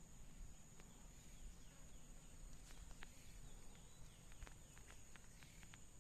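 Faint woodland ambience: a steady high insect drone, short falling bird chirps, and a few scattered faint clicks.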